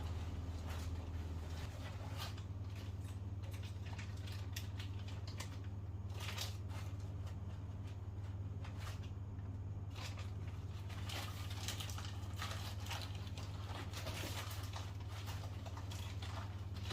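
Scattered light clicks, taps and rattles of hands handling small parts and tools, over a steady low hum.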